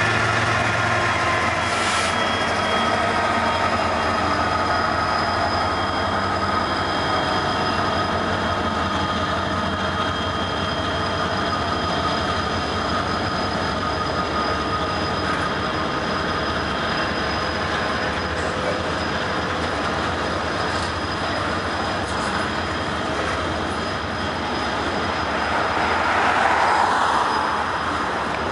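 Freight train rolling past close by: a Union Pacific diesel locomotive at the start, then a steady rumble of boxcars and covered hoppers with thin, high steady wheel squeal over it. A louder squeal swells near the end.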